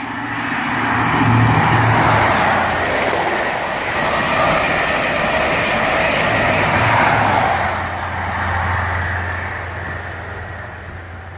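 Class 43 HST diesel train passing through the station at speed without stopping: a loud rush of wheels and air that builds quickly, holds, then fades slowly as it recedes, with a steady low engine hum coming through in the second half.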